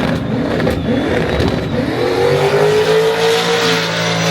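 Drag race car engine, rough and uneven at first, then accelerating hard about two seconds in, its note climbing and holding high as the car runs down the strip.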